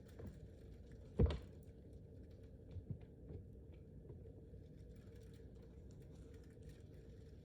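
Wind rumbling on the microphone during a snowstorm, with scattered light ticks like ice pellets striking it. A sharp knock sounds about a second in, and a few softer knocks follow around three seconds in.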